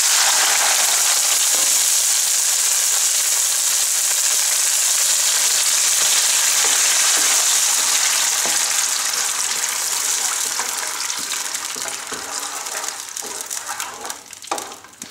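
Chopped tomatoes sizzling loudly in hot olive oil in a frying pan, just added over browned garlic and chili, while a wooden spoon stirs and scrapes them with small clicks. The sizzle fades over the last few seconds.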